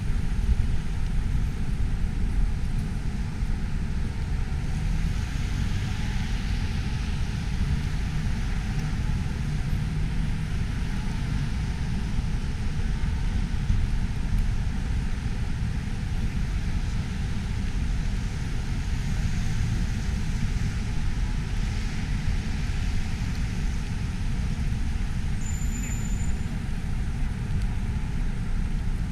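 Steady road traffic noise with a dense low rumble, the kind that wind buffeting the microphone makes.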